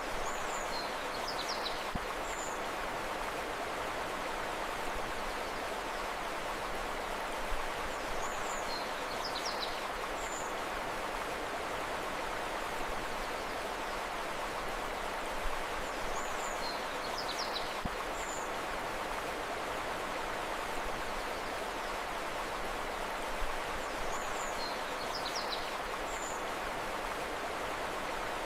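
Steady rush of flowing river water, with a short cluster of high bird chirps coming back about every eight seconds, the same each time.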